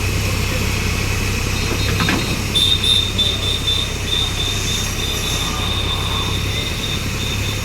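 Heavy construction machine's engine running steadily, joined about two seconds in by a high, thin metallic squeal that stutters at first and then holds steady.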